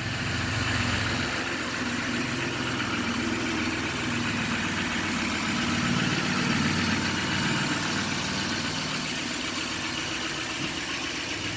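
2014 Chevrolet 2500 Duramax 6.6-litre V8 turbodiesel idling steadily.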